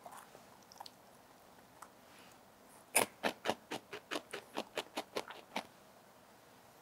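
Crisp snack chip crunched between the teeth, close to the mic: a quick run of about fourteen crunches, about five a second, starting about three seconds in, loudest at first and fading.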